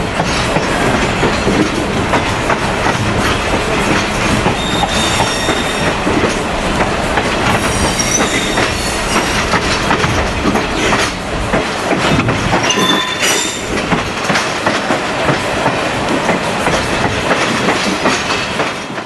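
Passenger train running along the track with steady wheel-on-rail noise, and short high-pitched wheel squeals a few times.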